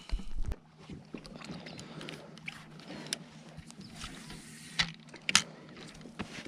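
Scattered knocks and clicks of fishing gear being handled in a boat, over a steady low hum. The loudest knocks come right at the start and again about five seconds in.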